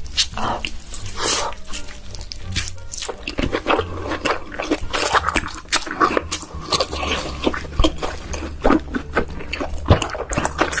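Close-miked eating sounds of king crab: shell cracking, chewing and wet mouth smacks in many quick, irregular clicks.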